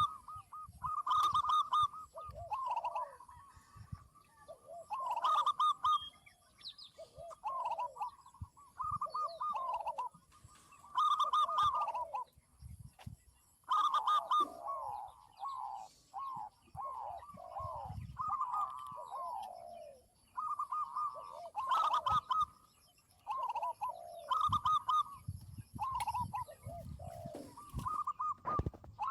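Several zebra doves and spotted doves cooing, their phrases overlapping and repeating every second or two; some are quick trilled coos and others slide downward in pitch.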